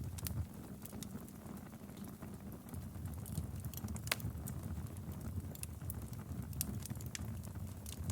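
Wood fire crackling in a fireplace: scattered sharp pops over a low steady rumble of burning, with one louder pop about four seconds in.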